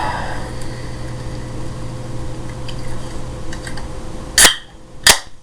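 A steady low hum, then two sharp clicks about two-thirds of a second apart near the end. The second click is followed by a drop in the background hum.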